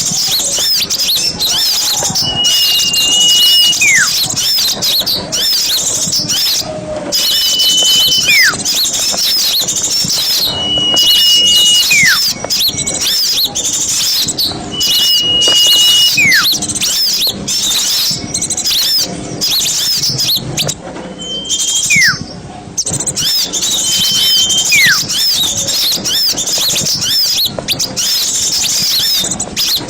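A bird-lure recording of a dense chorus of small songbirds, with many high chirps and twitters overlapping. Every few seconds a clear whistle holds one note, followed by a quick whistle that falls in pitch.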